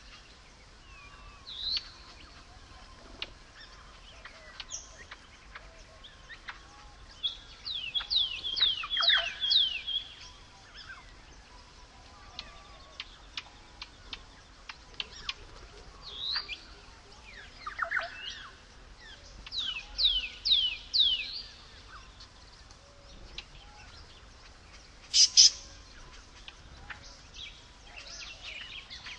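Wild birds calling: scattered chirps, two runs of four or five quick, falling whistled notes, and a short loud call near the end.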